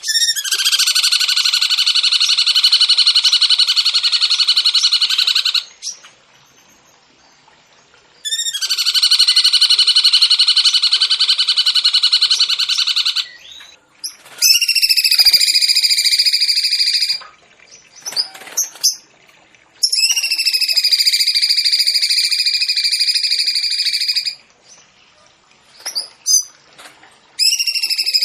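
Songbird singing long, loud, rapidly pulsing trills, each lasting several seconds, separated by short pauses and a few brief calls, from a birdsong tutor recording for training cage birds.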